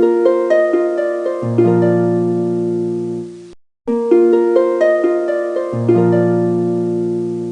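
Background music: a short harp-like plucked phrase of stepping notes, with deep low notes entering about a second and a half in. It fades out, breaks off briefly, and repeats identically about four seconds in as a loop.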